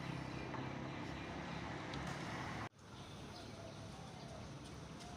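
Outdoor road ambience: a steady hum of vehicle traffic that cuts off abruptly about two and a half seconds in, followed by a slightly quieter outdoor background.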